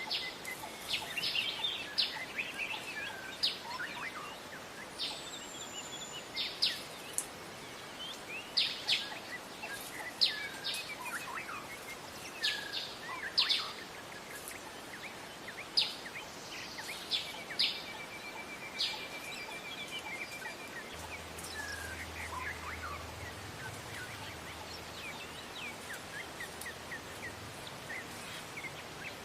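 Wild songbirds calling: a string of short, sharp high chirps roughly every second, with a fast, even trill a little past halfway. The calls turn fainter and sparser in the last third.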